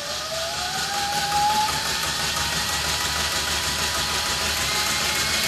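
Mechanical vibration generator of an earthquake simulator running as its driving frequency is turned up. Its tone rises in pitch over the first couple of seconds, then holds steady over a noisy buzz as the shaken model building begins to resonate.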